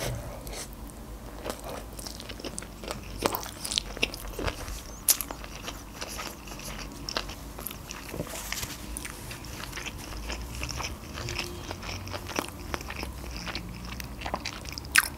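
Close-miked chewing of a mouthful of sushi roll topped with chuka seaweed salad: a steady stream of small clicks and crackles from the food and mouth.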